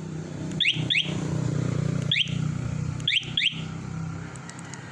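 Motorcycle engine idling steadily, with five short high chirps that drop in pitch: a quick pair about a second in, a single one at about two seconds, and another pair at about three seconds.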